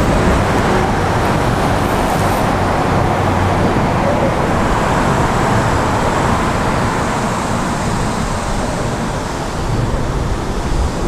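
Steady road traffic noise from a busy highway overpass overhead: an even, continuous wash of passing vehicles with no single event standing out.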